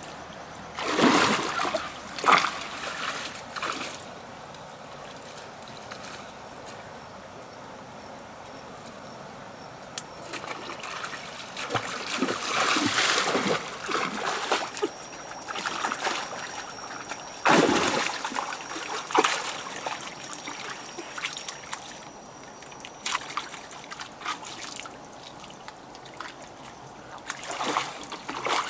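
Water splashing and trickling in several irregular spells, with calmer stretches between them.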